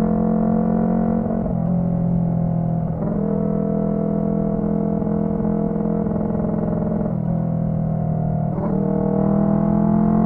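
Honda CB125T parallel-twin engine running through a loud aftermarket muffler while riding, a steady humming drone whose pitch steps down and up several times with gear changes and throttle.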